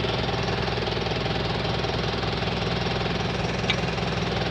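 Fuso Canter's 4D32 four-cylinder diesel idling, with a rapid, steady ticking rattle from the clutch hydrovac (vacuum clutch booster) as the clutch pedal is held down. The driver likened the noise to a wiper motor running, and the mechanic takes it for a fault inside the hydrovac, something flicking inside under vacuum.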